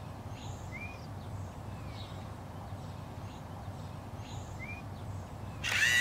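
Quiet room tone with a low steady hum and a few faint, short bird chirps. A brief louder sound comes just before the end.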